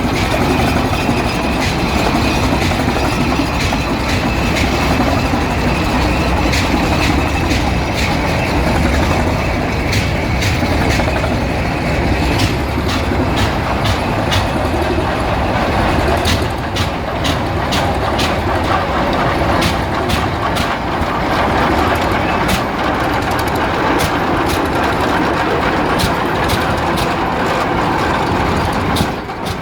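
Tractor engines running steadily and loudly as tractors pass in a parade, with scattered sharp clicks in the second half.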